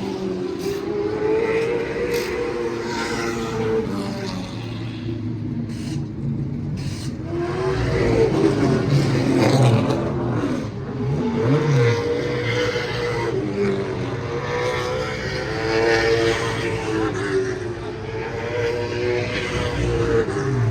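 Race cars running laps on an oval track, their engine notes repeatedly rising and falling as they accelerate, lift and pass by, with several cars overlapping.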